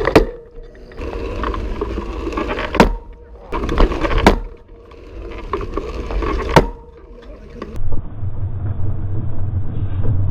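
Single-speed bicycle chain skipping under hard pedalling: about five sharp bangs, one to three seconds apart, over rolling noise. The uploader puts this down to the stiff 1/8" chain trying to derail as the flexy steel frame bends under high power, then jumping violently back into place when the frame flexes the other way.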